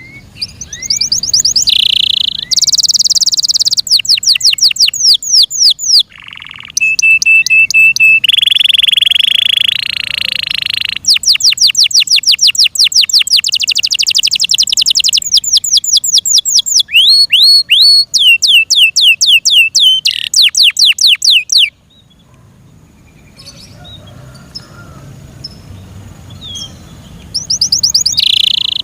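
F1 Yorkshire-cross canary singing loudly. Its song is made of high-pitched rolls and trills: fast runs of repeated notes and quick swooping notes in phrases a few seconds long. About three quarters of the way through the song stops for several seconds, then starts again near the end.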